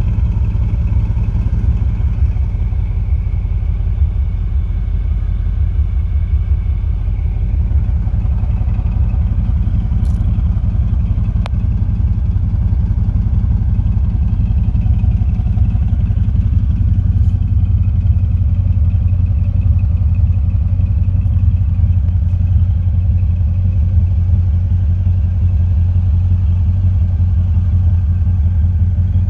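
1969 Corvette's 350 cubic-inch V8 idling steadily through its factory side pipes, a low, even exhaust note that grows a little louder about halfway through.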